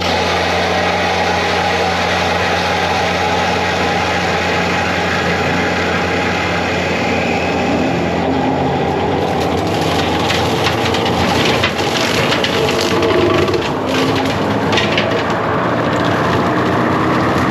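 A compact track loader's diesel engine running at high revs under steady load, driving a hydraulic cutting attachment. From about halfway, wood cracks and splinters repeatedly as brush and limbs are cut and crushed.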